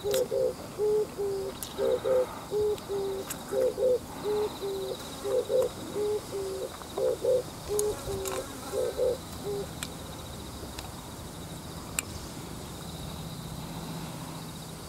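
A bird's low hooting call, repeated over and over in a steady phrase for about ten seconds and then stopping, with a faint steady insect drone and a few small clicks.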